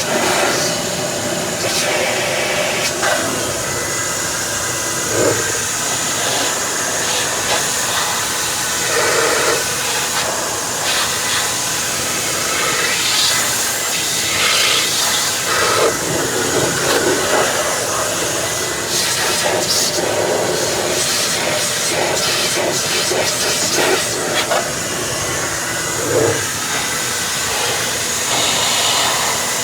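Steady, loud rush of air from a powered cleaning tool, rising and falling a little as it is moved about.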